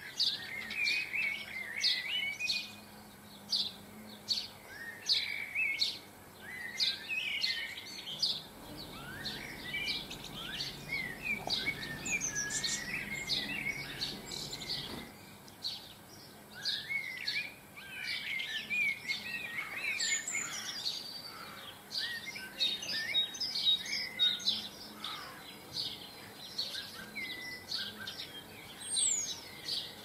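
Garden birds chirping and singing, many quick calls and warbled phrases overlapping throughout.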